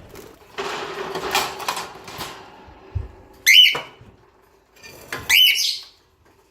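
A pet bird gives two short, loud calls, each rising then falling in pitch, about three and a half and five seconds in, after a spell of rustling or wing movement.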